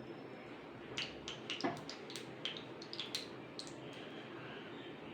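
Faint kitchen sounds from a small pan on the stove as a spoonful of oil heats for tempering: a steady low hiss with a scatter of small, sharp clicks and ticks starting about a second in.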